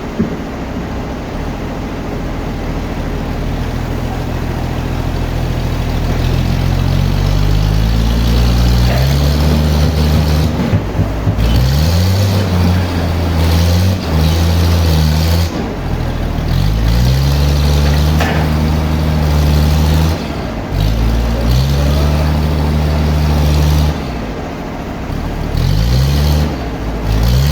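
Heavy engine running loud, its revs climbing over the first several seconds and then dropping and rising again several times.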